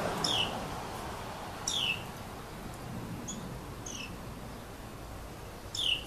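A bird's short high chirps, three of them, each sweeping sharply down in pitch, with two fainter high peeps in between, over a steady background hiss.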